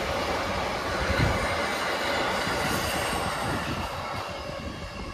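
A train running past on the rails: a steady rumble of wheels on track with a few high steady tones over it, fading away from about four seconds in.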